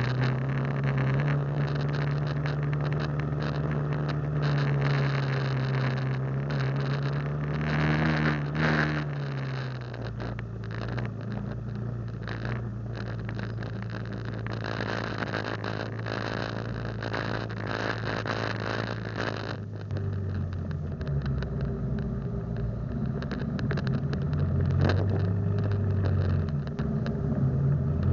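Motorcycle engine running, its steady note rising slightly about eight seconds in, dropping about ten seconds in and shifting lower again around twenty seconds in.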